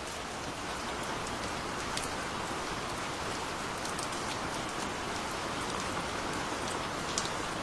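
Steady rain falling, with individual drops pattering on a surface, heard as scattered sharp ticks over the even hiss.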